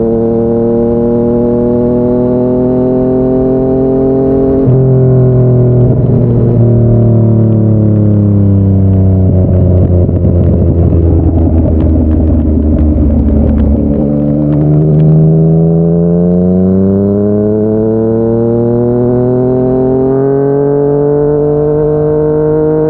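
Yamaha MT-09's three-cylinder engine through a Yoshimura R55 slip-on exhaust while riding. It revs up, changes gear about five seconds in, and then its pitch falls for several seconds as the bike slows. There is another gear change about fourteen seconds in, and the engine then pulls steadily up in pitch again.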